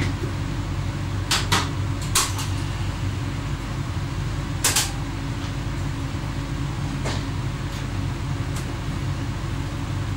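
Steady low running drone heard inside the driver's cab of an X11 electric multiple unit on the move. Sharp clicks and knocks cut in at irregular moments, a quick pair about a second and a half in and the loudest near the middle.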